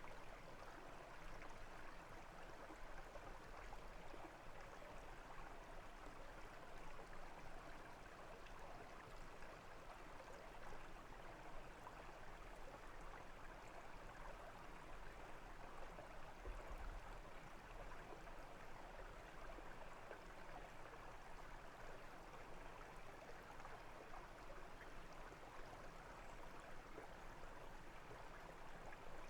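A brook flowing and babbling over stones, a steady, fairly faint rush of water.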